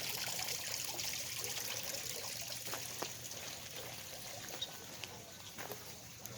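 Water trickling steadily and growing fainter, with a few faint clicks.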